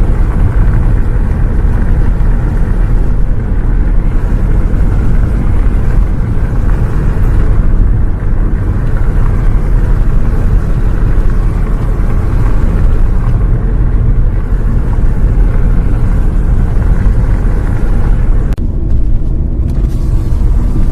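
Steady, loud low rumble of a bus on the move, engine and road noise heard from inside the vehicle.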